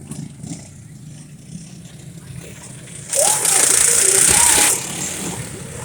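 Racing lawnmower engines running in a race, with a low steady rumble at first; about three seconds in, a loud harsh burst of engine noise lasts under two seconds, then drops back.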